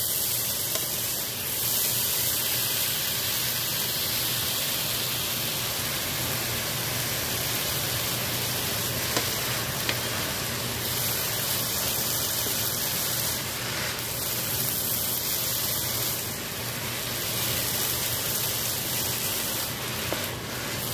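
Quinoa stir fry with peppers, mushrooms and spinach sizzling steadily in a frying pan over reduced heat, with a couple of light clicks about halfway through.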